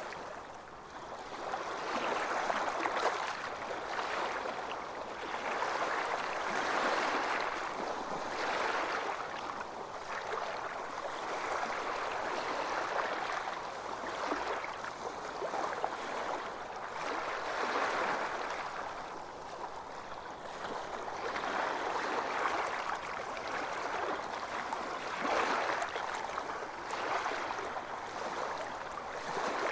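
Sea waves washing onto a beach, the surf swelling and easing every few seconds.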